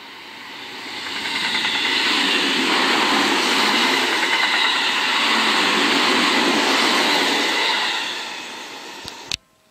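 Seibu Railway electric commuter train passing close by: the noise of wheels running on the rails builds over about two seconds, holds steady while the cars go by, then fades. Near the end there is a sharp click and the sound cuts off abruptly.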